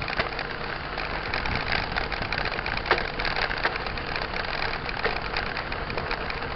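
Mountain bike rolling over a rough dirt trail: a steady rush of tyre and wind noise with frequent small rattles and clicks from the bike, one sharper knock about three seconds in.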